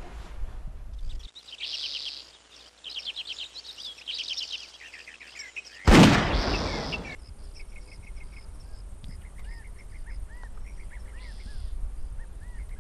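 Small birds singing in rapid high trills. About six seconds in, a single sudden loud bang cuts across them and dies away over about a second. Short chirps and calls go on after it.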